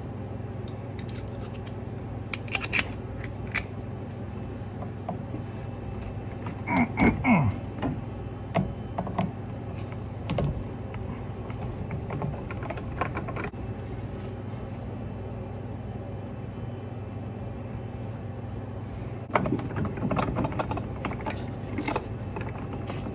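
Scattered metallic clicks and clinks of hand tools and Torx bits being handled while the screws of an old refrigerator condenser fan motor are taken out, with a busier cluster about 7 s in and another near the end. A steady low hum runs underneath.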